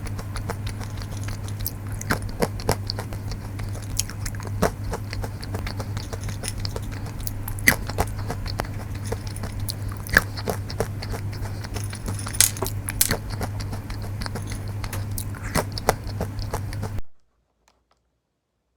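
Close-up chewing of crunchy honey-roasted peanuts: repeated sharp crunches and crackles over a steady low hum. Near the end it cuts off suddenly to near silence.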